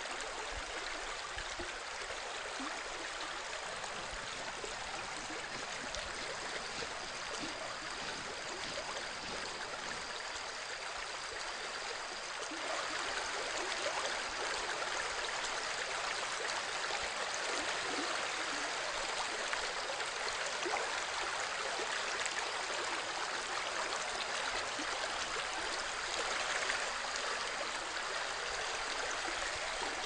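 Flowing stream water, a steady rush, growing a little louder about twelve seconds in.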